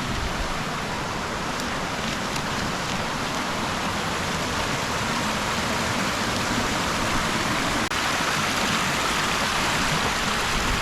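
Steady rushing of a fast-flowing woodland stream.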